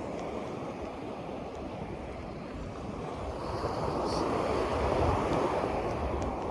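Rushing noise of wind and water, as from waves and wind on the microphone, swelling louder about halfway through.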